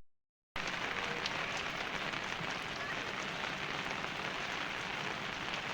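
Steady hiss of rain falling, with faint scattered drips. The sound cuts out completely for about half a second right at the start.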